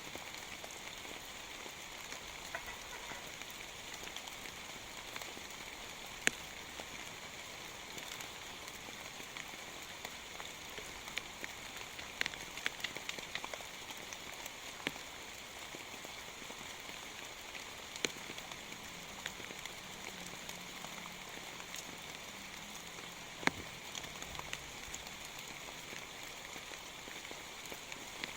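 Heavy rain falling steadily, with scattered single drops ticking louder now and then, several close together about halfway through.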